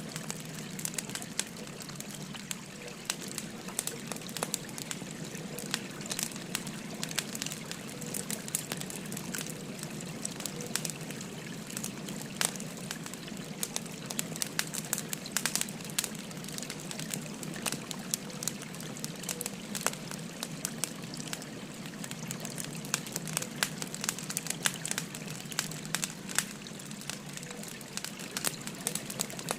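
Burning firewood crackling with frequent sharp, irregular pops over the steady babble of a flowing river.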